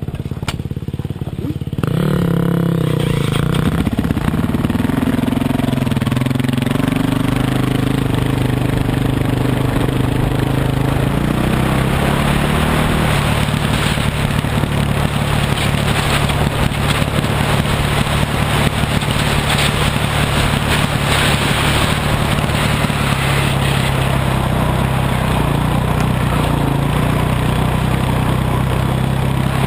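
Dirt bike engine running, louder from about two seconds in; its pitch shifts a few times near the middle, then holds steady.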